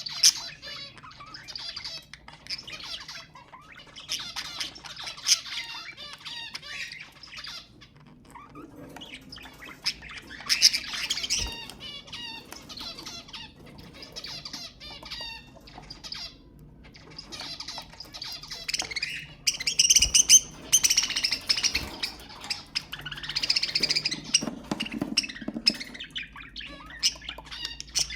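Budgerigars chattering and warbling: fast runs of chirps and squawks in bouts, with brief pauses between them.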